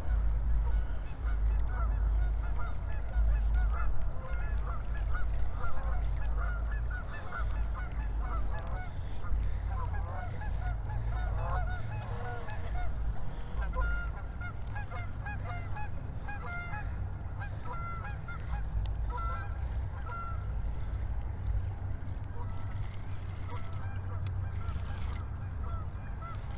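A flock of geese honking, many overlapping calls, densest in the first half and thinning out toward the end, over a steady low rumble.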